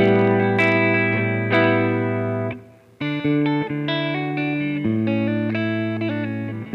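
Electric guitar played through a Nux MG-300 multi-effects modeler, with some distortion: chords struck and left to ring. The playing stops briefly about two and a half seconds in, then picks up again with a run of changing chords.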